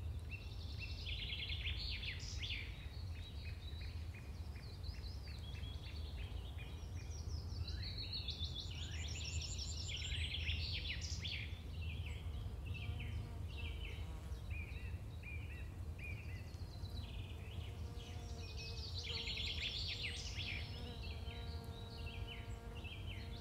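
Songbirds singing, many overlapping chirps, trills and repeated notes, over a low steady rumble.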